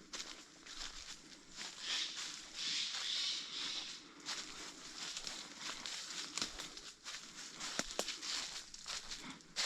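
Footsteps on the forest floor, rustling and crunching through leaf litter, with a few sharp clicks in the second half.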